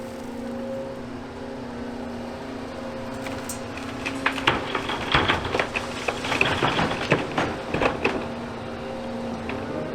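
Hydraulic excavator's diesel engine running steadily, with a burst of clattering and crashing from about four to eight seconds in, as demolition rubble is handled and dropped.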